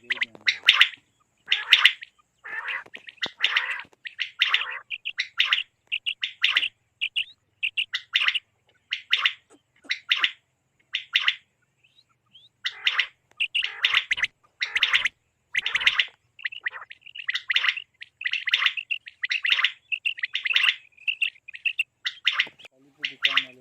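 Common quail calling over and over: runs of short, sharp, high notes, several a second, with a brief pause a little before halfway.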